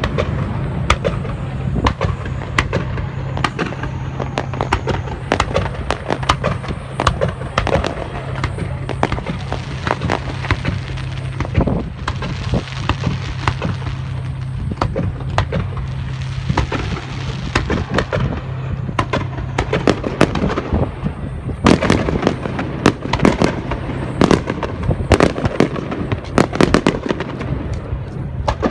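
Star mine fireworks barrage: many shells launching and bursting in rapid succession, bangs and crackles overlapping without a break, densest in the last third.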